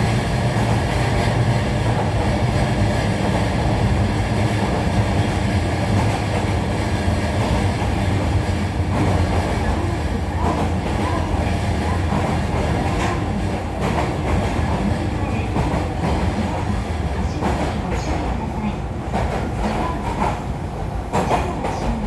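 Running sound heard inside a JR Kyushu 305 series motor car: a steady hum from the SiC-VVVF inverter and traction motors, with wheel and rail noise underneath. Near the end the motor tone fades and a run of sharp clicks from the wheels passing rail joints comes through.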